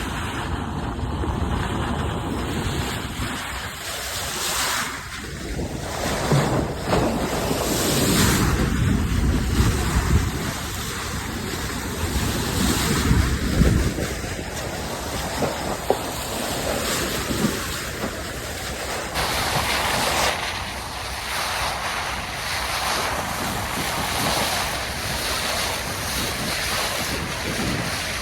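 Sea water rushing and splashing along a moving ship's bow, with wind buffeting the microphone; the noise swells and eases in irregular surges.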